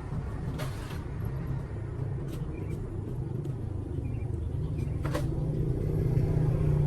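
Small motorbike engine running steadily with a low hum, growing gradually louder toward the end, with a few light clicks over it.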